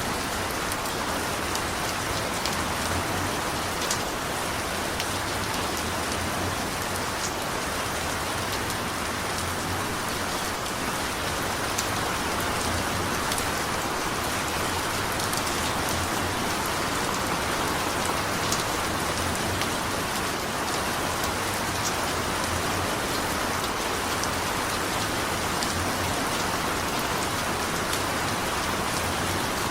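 Steady rain falling on a surface, with scattered individual drops ticking over a constant wash.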